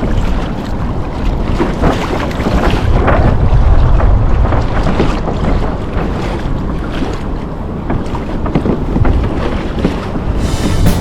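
Wind buffeting the microphone, with water rushing and splashing against a sailing kayak's hull. Music comes in just before the end.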